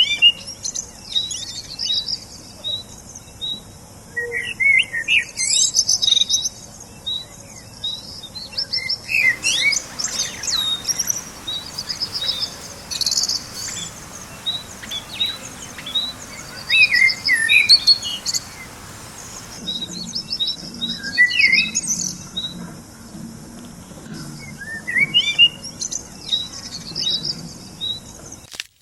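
Several songbirds chirping and singing, with many short chirps and quick trills overlapping throughout.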